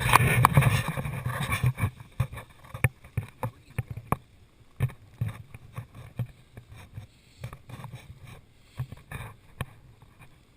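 Blizzard wind buffeting the microphone in irregular low gusts and thumps, heaviest in the first two seconds and then coming in shorter puffs.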